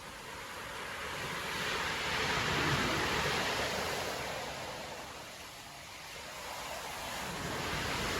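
Storm surf breaking on a beach: a wave crashes and washes in, loudest about three seconds in, then fades before the next one builds near the end.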